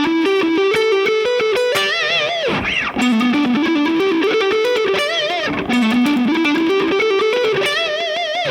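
Overdriven electric guitar playing a fast minor pentatonic lick: a repeating pull-off sequence moving across the strings in quick even notes, twice climbing in steps, ending on a bent note shaken with vibrato.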